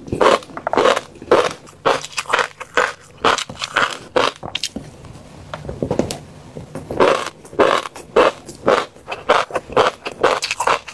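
Fish roe being chewed close to the microphone: a run of crunches, about two to three a second, easing off briefly in the middle before picking up again.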